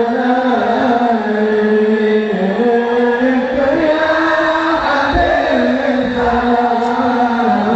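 Voices singing a slow Islamic devotional chant (sholawat) in long, drawn-out notes that slide slowly from pitch to pitch.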